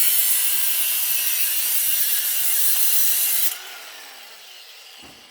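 Power tool cutting through a hot water heater valve fitting: a loud, continuous cutting noise that stops sharply about three and a half seconds in. A falling tone follows as the tool winds down, with a couple of knocks near the end.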